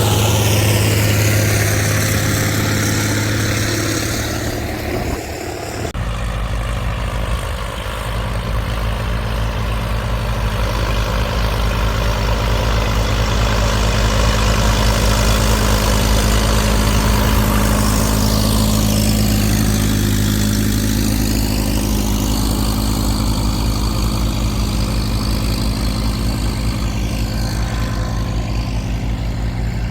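Tractor engine running steadily, a deep even hum with a sudden change in its sound about six seconds in.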